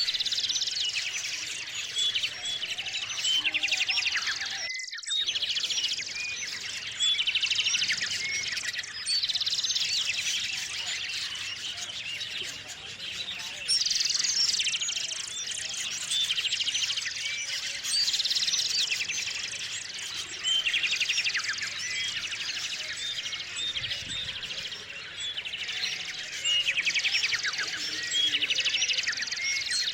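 A chorus of small songbirds chirping and trilling at a feeder, many short overlapping calls with rapid trills. The sound cuts out briefly about five seconds in.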